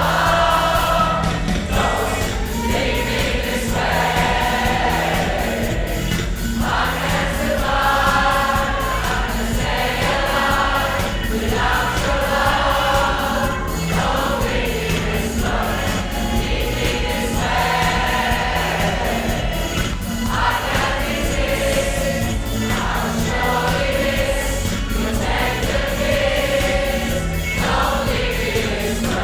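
A choir singing a song live in phrases, over an accompaniment with steady low notes and a regular beat.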